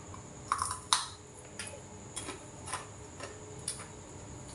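Close-up chewing of a crunchy bánh quai chèo (fried dough twist): a string of sharp, irregular crunches about every half second, the loudest about a second in.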